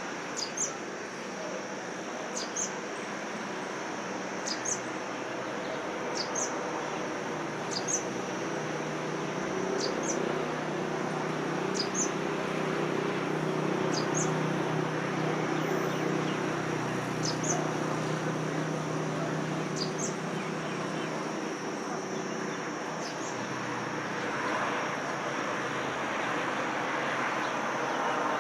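Natural ambience: a steady high insect drone, with a short, sharp high chirp repeating about every two seconds. Under it runs a low hum that swells in the middle.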